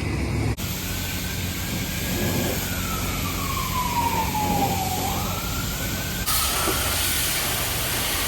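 A siren wailing, its pitch sliding slowly down and then climbing again, over a steady low engine hum. The sound jumps abruptly about half a second in and again after about six seconds.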